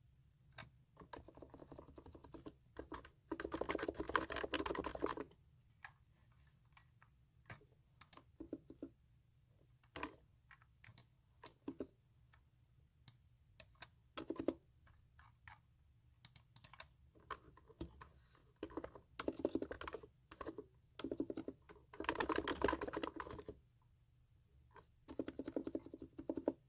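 Computer keyboard typing close to the microphone: scattered single key presses broken by several quick runs of rapid keystrokes, the longest about two seconds.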